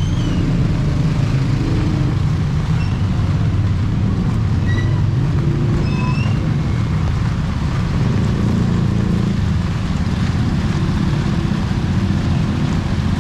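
Steady low rumble of a motor vehicle engine running close by, over a constant hiss of street noise, with a few faint short high chirps in the first half.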